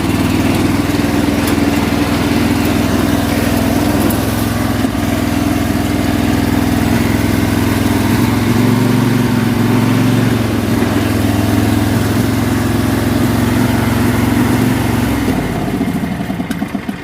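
Small single-cylinder engine of an old riding lawn mower running steadily, then shut off about fifteen seconds in, its pitch falling as it winds down to a stop. The engine has sat unused for years.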